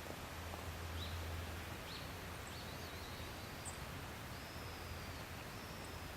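Thin, high whistled bird calls, several short ones and a couple of longer flat notes, over a steady outdoor background hiss and low hum.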